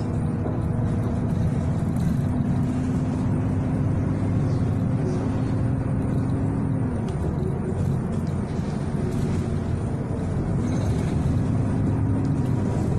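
City bus running, heard from inside the passenger cabin: a steady low engine and road rumble. A whine holds steady, drops away about seven seconds in, and comes back near the end.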